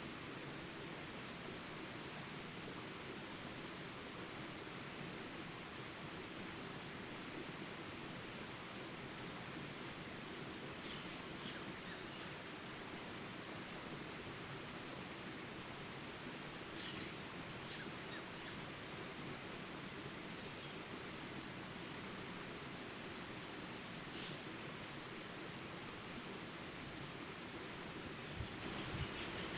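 Crickets trilling in a steady high chorus, with a few faint short bird chirps in the middle. Just before the end there is a light knock and the background noise grows louder.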